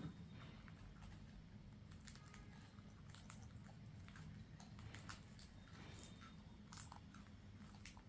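Parrot crunching fried rice grains in its beak: faint, irregular small crunches and clicks over a low steady hum.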